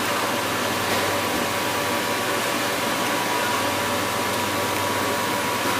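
Steady machine noise: an even hiss with a few constant humming tones underneath, with no change throughout.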